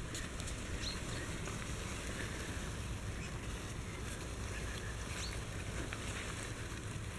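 Faint short squeaks from four-week-old Shikoku Ken puppies, about twice, over a steady low background rumble.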